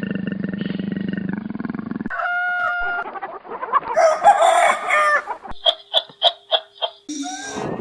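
Chicken sounds in quick succession: pitched crowing-like calls and clucking, then a run of short calls at about four a second. For the first two seconds a low, steady growling roar carries on before the sound cuts to the chickens.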